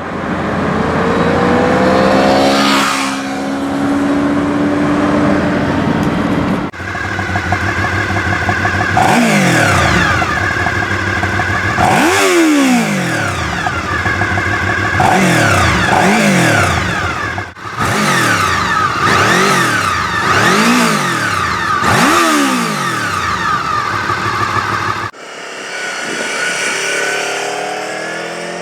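Honda VFR800 RC46 V4 engine being revved through its exhaust in a series of sharp throttle blips, each one rising and falling in pitch, with the sound changing abruptly several times as if separate takes were joined. Near the end a quieter stretch with the engine note climbing more slowly.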